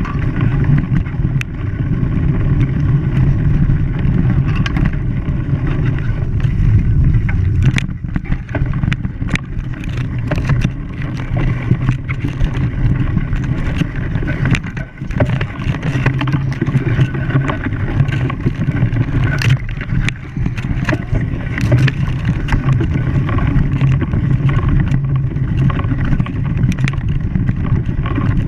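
Engine running steadily with a low hum, with frequent sharp knocks and clatters throughout.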